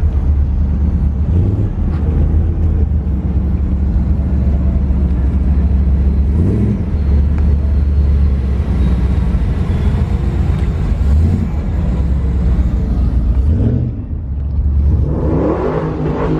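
Vehicle engine idling with a deep, steady rumble, blipped briefly a few times and revved up near the end.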